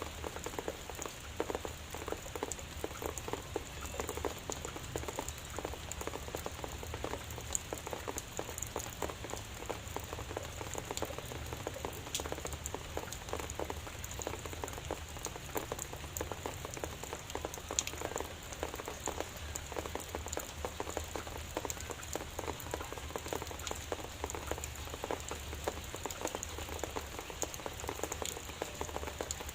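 Steady light rain, drizzle pattering on surfaces with dense small drop ticks, under a constant low hum.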